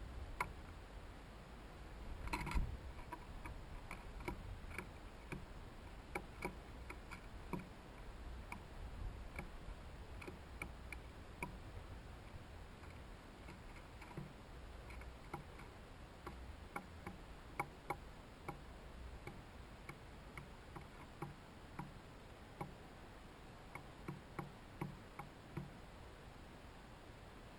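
Scattered faint ticks and taps at a hanging bird feeder, a few a second at uneven intervals, typical of birds pecking at and handling seed, with one louder knock about two and a half seconds in.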